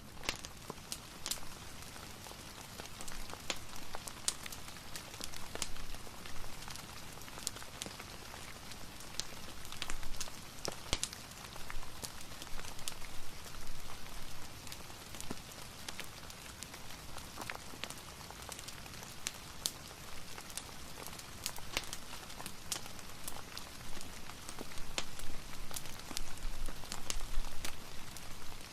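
Steady rain mixed with a crackling fireplace: an even hiss broken by scattered, irregular sharp pops and ticks.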